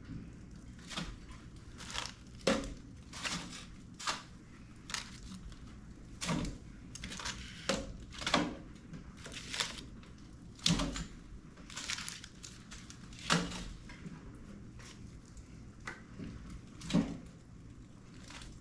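A series of irregular sharp clicks and knocks, about one or two a second, over a low steady hum.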